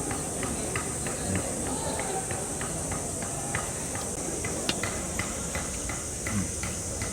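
Wood campfire crackling with frequent short irregular pops, over a steady high drone of summer insects.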